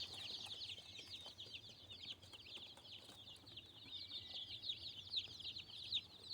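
A boxful of day-old meat-bird (broiler) chicks peeping loudly and constantly, many short, falling, high cheeps overlapping. This is the calling of newly shipped chicks not yet settled under a heat lamp, which quiets once they are warm.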